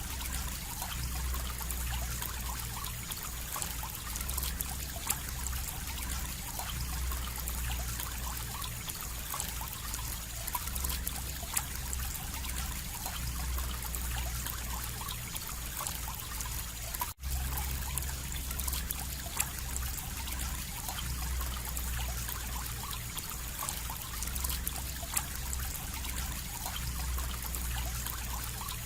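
Water trickling steadily, with many small splashes and drips, cut by a momentary break about seventeen seconds in.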